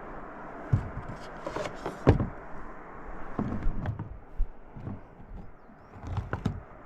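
Steady rush of river water with a handful of irregular close knocks and thuds, the loudest about two seconds in.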